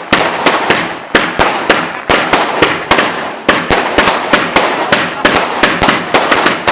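Fireworks going off in a rapid barrage of loud bangs, about four to five a second, with crackling between them.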